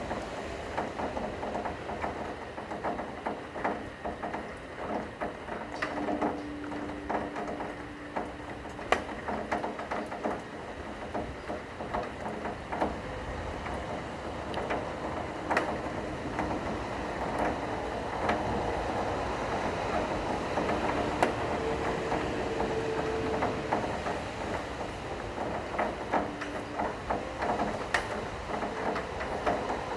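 Steady rain with many scattered drop impacts, over a few faint, long-held cello notes.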